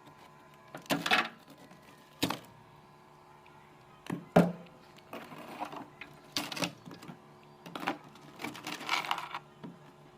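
Thick freezer frost being chipped and scraped off inside a refrigerator: a series of irregular knocks and short scraping strokes, about six or seven in ten seconds, over a faint steady hum.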